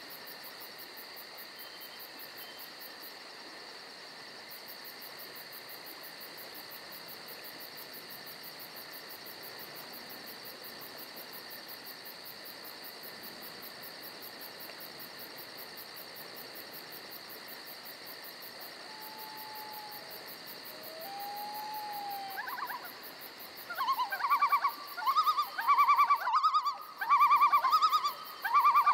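Steady hum of insects, then near the end a bird's loud call repeated about five times, roughly a second apart.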